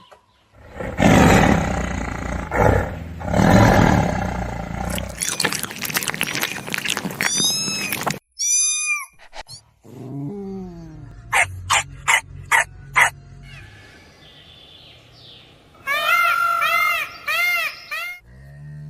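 A run of different animal calls, one after another: a loud, rough roar through the first few seconds, then a string of higher-pitched cries, several repeated in quick succession.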